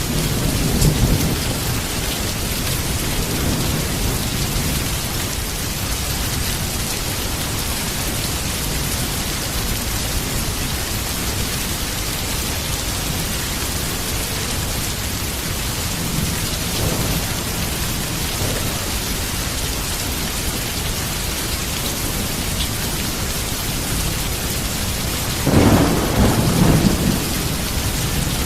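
Heavy rain falling steadily in a thunderstorm, with thunder rumbling low in the first few seconds. A louder peal of thunder comes near the end.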